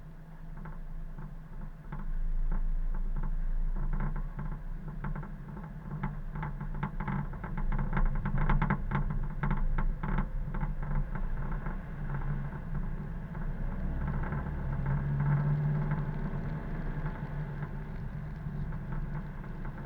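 Car driving along a road: steady low engine and tyre noise, with a run of quick rattling clicks through the middle.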